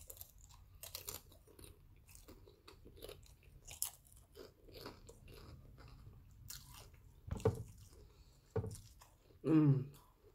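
Close-up chewing and crunching of potato chips in the mouth, a run of many small irregular crackles. A few short vocal sounds come near the end.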